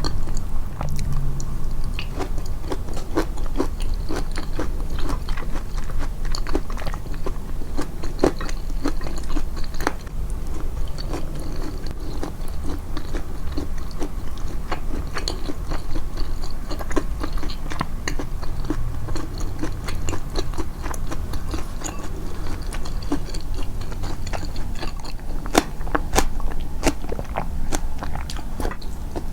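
Close-miked chewing and biting of food, with crunchy bites and many short mouth clicks throughout, amplified as eating ASMR.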